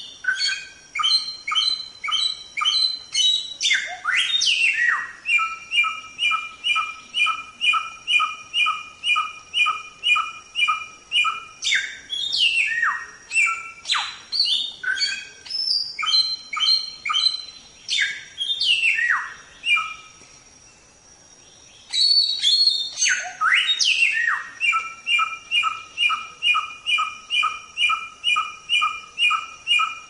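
Samyong songbird singing. It gives long rhythmic series of quick repeated chirps, about two a second, broken now and then by sharp downward-sweeping whistles. The song pauses for about two seconds two-thirds of the way through.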